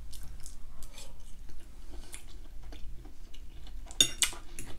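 Close-miked chewing of a mouthful of ham gratin, with small wet mouth clicks. About four seconds in, a louder cluster of clicks as a metal fork scrapes and clinks on the ceramic plate.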